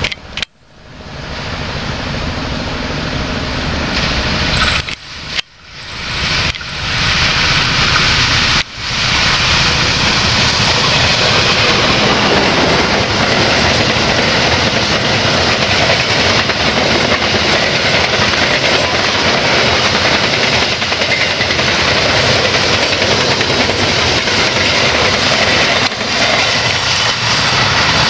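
Passenger train passing close by the track: the loud, steady rush and rattle of the coaches rolling over the rails. The sound breaks off abruptly a few times in the first nine seconds.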